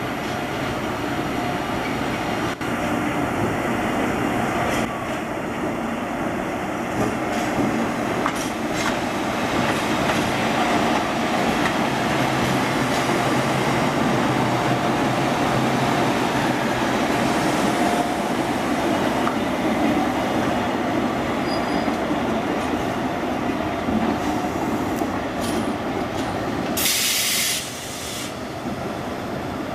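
Freight train hauled by an ED76 electric locomotive rolling along the track, its wheels clacking over rail joints. Near the end there is a short, sharp hiss of air.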